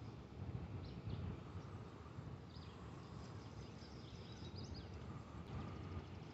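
Faint outdoor birdsong: scattered short chirps and calls, with an on-off whistled note, over a low steady rumble.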